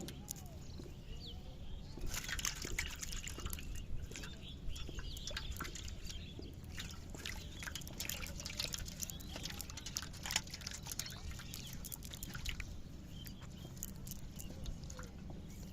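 Water splashing and dripping in many short, irregular bursts, busiest from about two seconds in until near the end, over a steady low rumble.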